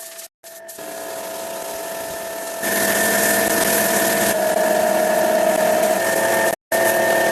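A power tool's motor running steadily with a fixed whine, stepping up in level about two and a half seconds in, with brief abrupt cut-outs.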